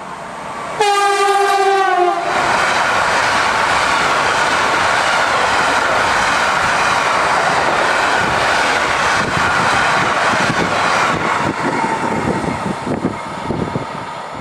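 An electric freight locomotive sounds one horn blast of just over a second, its pitch dipping slightly as it passes. A long train of covered hopper wagons then rushes by with loud, steady wheel and rail noise. Near the end the noise thins into distinct wheel clicks as the last wagons go by.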